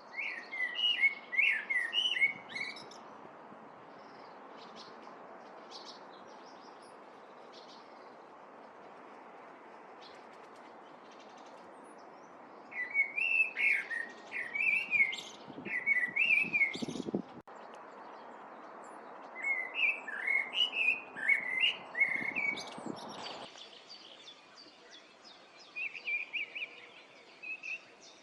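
A songbird singing in three bursts of quick, high chirping notes over a steady rushing noise, which cuts off about three-quarters of the way through; fainter chirping follows.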